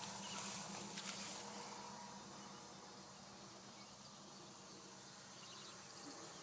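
Faint outdoor background with insects chirring, and a low steady hum that fades about a second and a half in.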